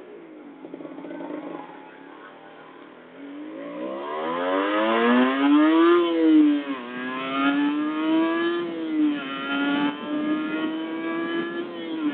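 Kawasaki Ninja motorcycle engine heard from the rider's seat under hard acceleration. It is quiet for the first few seconds, then revs climb steeply from about three seconds in. Pitch drops quickly twice, about six and nine seconds in, as it shifts up a gear, and climbs again each time.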